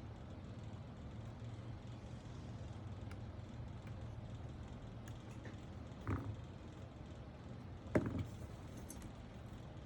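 Keyboard parts being handled during a build: two short clacks about two seconds apart, the second sharper and louder, over a steady low hum.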